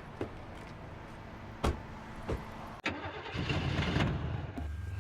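Car engine being cranked over. The rumbling starts about three seconds in, after a couple of sharp knocks, and gives way to a steady low hum near the end. The car is an unreliable one that struggles to start.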